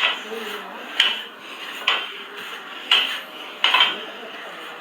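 Metal gym weights clinking during a pulling exercise, with sharp clinks about once a second.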